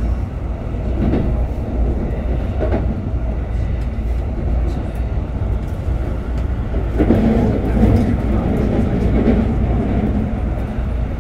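Keikyu New 1000 series electric train running, heard from inside the car: a steady rumble of wheels on rail with a few faint clicks. It grows louder for a few seconds from about seven seconds in.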